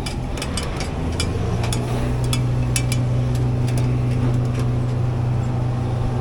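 Steady low hum of running machinery that sets in about a second in and cuts off abruptly near the end, with many scattered sharp clicks and knocks.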